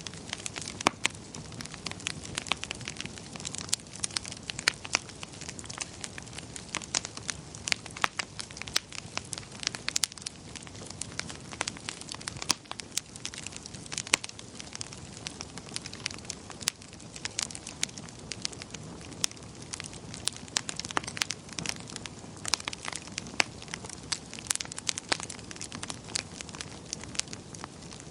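Wood fire in a fireplace crackling: frequent sharp, irregular pops and snaps over a steady low rush of the flames.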